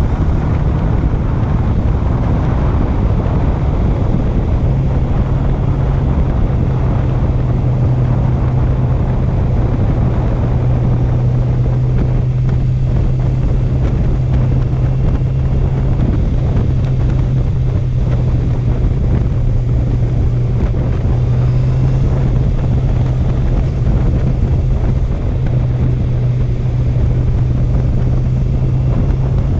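Honda CB650F's inline-four engine running at steady cruising revs on the move, a constant low drone, with heavy wind rush on the microphone.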